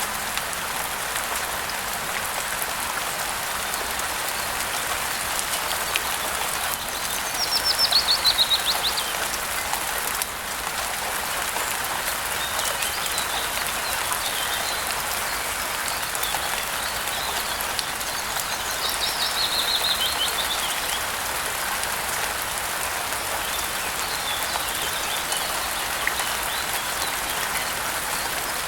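Steady rain falling, with a bird singing a short, quickly descending trilled phrase twice, about eight and nineteen seconds in, and fainter chirps in between.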